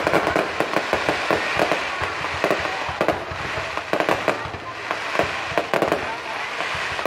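Aerial fireworks bursting overhead: a rapid, uneven string of sharp bangs and crackles.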